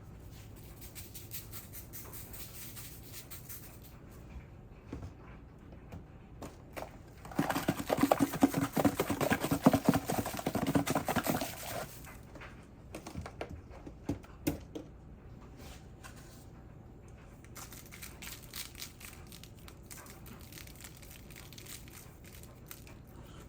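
Kitchen handling noises while raw chicken breasts are turned over and seasoned on the other side: quiet clicks and knocks over a low steady hum, with a dense burst of rustling and crackling lasting about four seconds, starting about seven seconds in.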